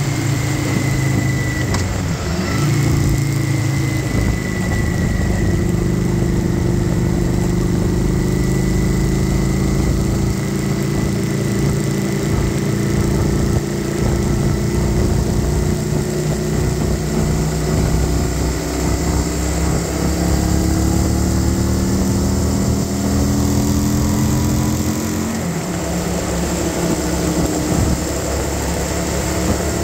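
Kawasaki Vulcan 900's V-twin engine pulling along at highway speed, its pitch climbing slowly as the bike gains speed, then dropping suddenly near the end. Steady wind and road noise run underneath.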